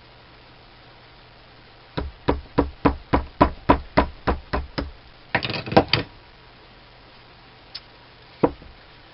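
A hammer striking a stuck part of a lathe tool post, about eleven sharp blows at roughly three a second to persuade it loose, then a short metallic clatter and one last knock.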